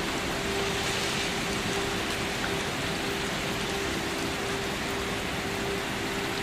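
Steady, even rainfall pattering on surfaces. A faint, steady low hum runs underneath, fading in and out.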